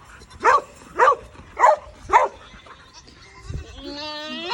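A dog barking four times, about half a second apart, then a rising, drawn-out animal call near the end.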